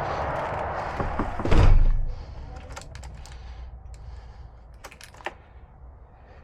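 A heavy truck cab door shuts with a loud thump about one and a half seconds in, cutting off the outside noise, followed by a few light clicks inside the cab.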